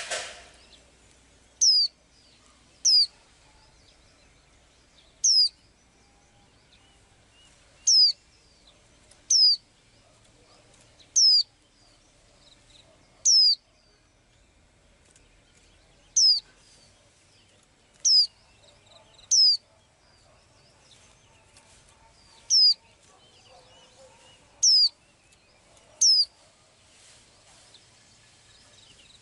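A small bird calling over and over with a single high whistled note that slides down in pitch. The notes come singly, every one to three seconds, about fourteen times. There is a short knock at the very start.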